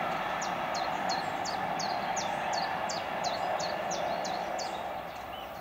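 Electric passenger train rolling away along the track, its running noise slowly fading. Over it a bird repeats a high, downward-slurred note about three times a second, stopping near the end.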